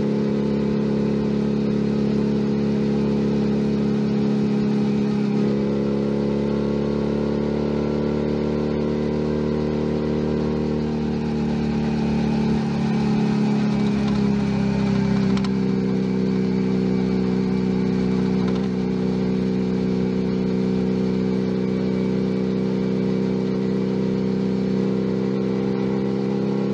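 Junak M11 Cafe 125 cc motorcycle engine running while riding, recorded on board: a steady engine note that climbs a little about five seconds in, eases down midway, and then holds at a lower pitch.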